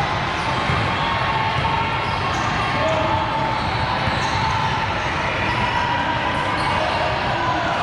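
Steady din of a youth volleyball tournament in a large hall: balls bouncing and being hit, mixed with a general hubbub of player and spectator voices.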